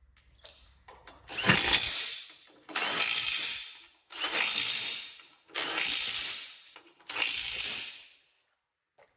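Ratchet wrench tightening the wheel fasteners on a garden tractor's rear wheel: five ratcheting runs of about a second each, evenly spaced.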